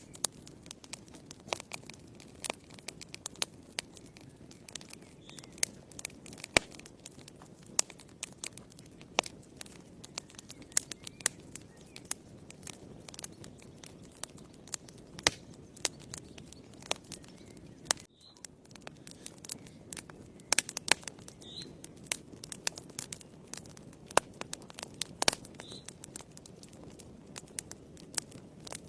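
Wood fire burning in a fireplace: irregular sharp crackles and pops over a low, steady rush of flame.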